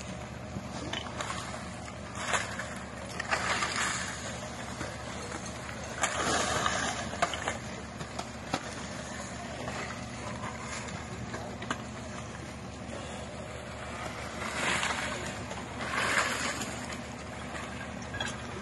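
Engine running with a steady low hum, with a few brief swells of rushing noise over it.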